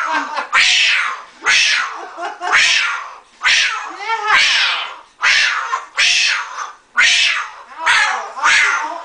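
Cockatoo screeching over and over, about one loud, harsh call a second, each starting suddenly and falling in pitch. It is the excited or aggressive calling of a cockatoo attacking a set of keys, which it treats as a snake.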